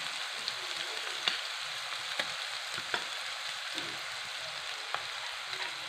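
Onion paste frying in hot oil in a pan: a steady sizzle with scattered sharp pops. Ginger-garlic paste has just been added to it.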